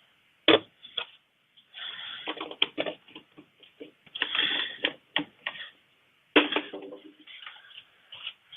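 Handling noise of plastic quart oil bottles and a funnel: two loud sharp clicks, about half a second in and again after six seconds, among bouts of rattling clatter.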